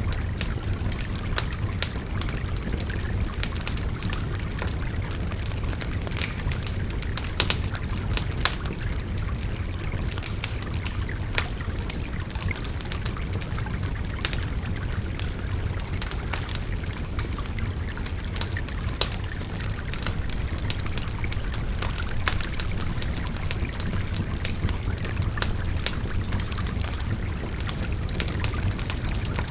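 Wood fire crackling, with sharp irregular pops throughout, over the steady rush of a babbling river.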